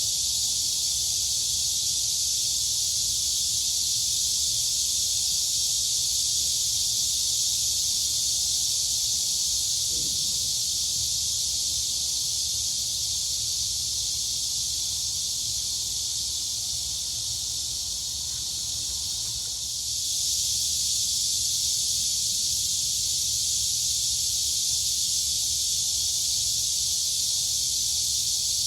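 Dense, steady chorus of crickets and cicadas, a continuous high-pitched shrill buzz that dips slightly in level about two-thirds of the way through.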